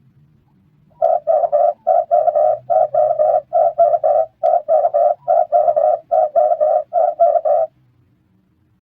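Red turtle dove (red collared dove) cooing: a fast run of short, low coos in quick clusters, starting about a second in and stopping near the end.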